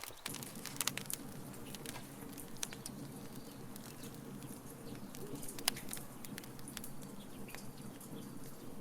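Wood fire in a fire pit crackling, with irregular sharp pops and ticks, the loudest a little after halfway, over a steady low hum.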